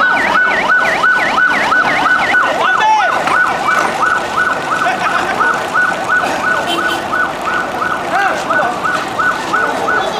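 Emergency vehicle siren sounding a fast yelp, its pitch sweeping rapidly up and down about three times a second.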